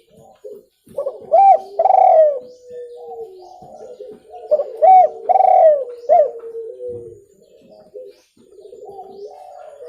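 Spotted dove (tekukur) cooing: two loud phrases of a few short, bending notes about three seconds apart, over fainter continuous cooing, with a third phrase starting near the end.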